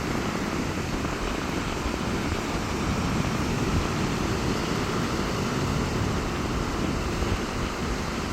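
Sea waves washing onto a beach in strong wind: a steady rush of noise with a heavy, flickering low rumble.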